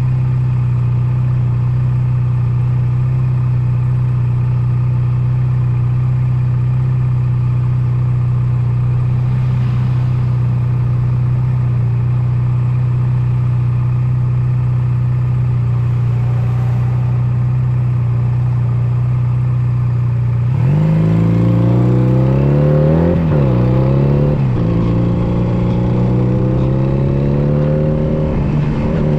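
Honda Nighthawk 250's air-cooled parallel-twin engine running at a steady pitch. About twenty seconds in it revs up and accelerates, the pitch climbing, dipping at a gear change, then settling at a higher steady note.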